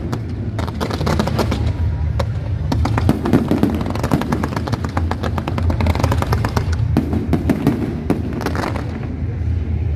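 Fireworks display: rapid crackling and popping in dense clusters of sharp cracks, over a steady low rumble.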